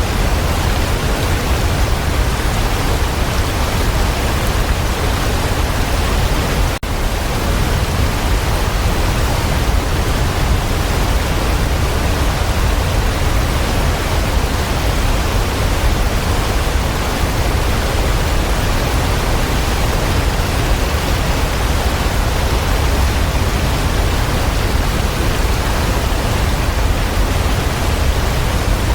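Waterfall rushing in a steady, dense roar of falling water, heaviest in the low end. A momentary dropout about seven seconds in.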